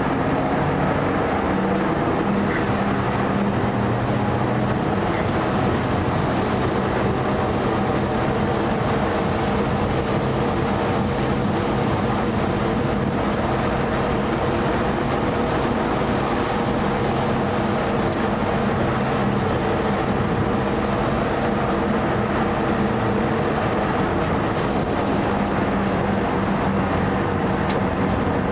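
Mitsubishi Lancer Evo IV's turbocharged four-cylinder engine heard from inside the cabin, running at fairly steady revs with only small changes in pitch, over a steady rush of road and wind noise.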